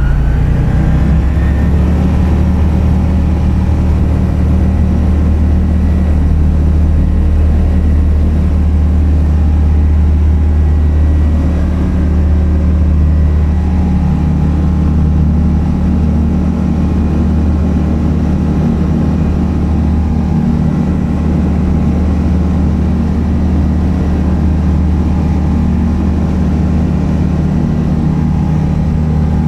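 Single-engine light aeroplane's piston engine running loudly, its pitch rising at the very start and then holding steady.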